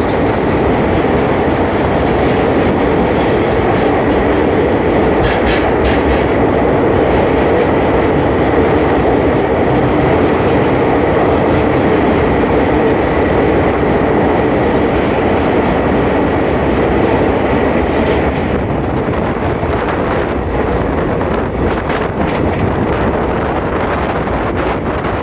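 Train running along the track: a steady rumble of wheels on rails, with scattered clicks in the last several seconds.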